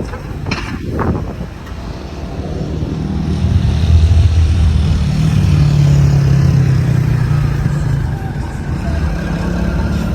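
A car engine running, getting louder over the first few seconds and then holding steady.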